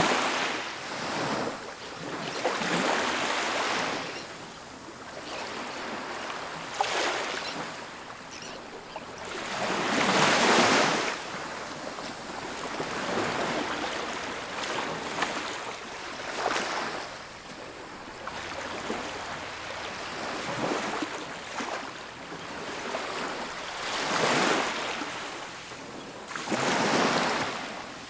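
Ocean waves breaking on a beach, a rushing hiss that swells and fades every few seconds, the loudest wash about ten seconds in.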